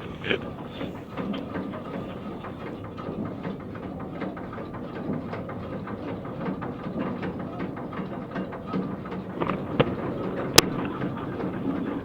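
Chain ferry hauling itself along its chains: a steady mechanical rumble with many small irregular clanks from the chain, and one sharp click near the end.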